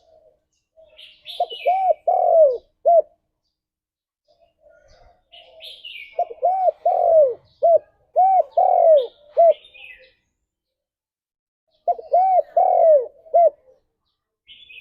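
Spotted dove cooing: three phrases of several rising-and-falling coo notes, a few seconds apart, with short higher chirps mixed in.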